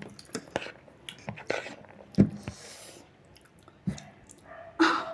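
Close-up eating sounds: chewing and biting, with irregular wet mouth clicks.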